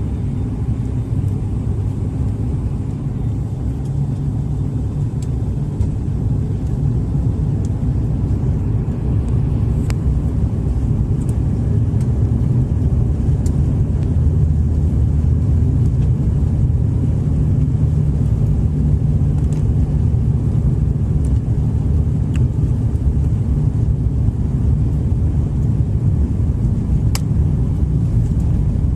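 Steady low rumble of airliner cabin noise, engines and airflow heard from inside the cabin during the approach to landing, growing a little louder a few seconds in, with a few faint ticks.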